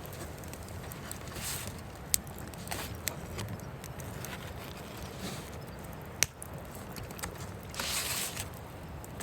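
Wood fire burning: scattered crackles and two sharp pops, about two seconds and about six seconds in, with short hissing rushes, the largest near the end.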